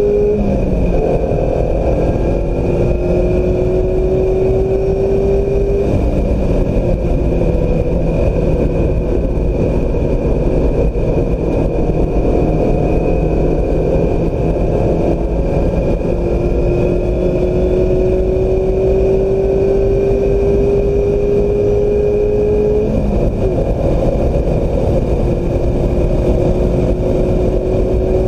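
2016 Mazda MX-5 Miata's 2.0-litre four-cylinder engine driven hard, its pitch climbing slowly and then dropping sharply several times as the driver shifts or lifts, over heavy road and wind noise.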